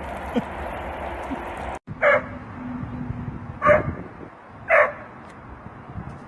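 A dog barking three times, short sharp barks a second or so apart.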